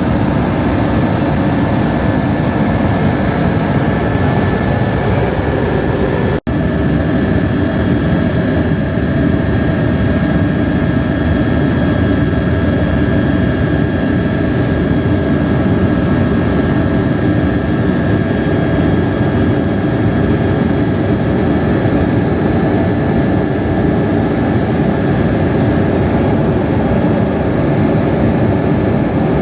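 Helicopter in flight: a steady, loud engine and rotor noise with a constant high whine, cutting out for an instant about six seconds in.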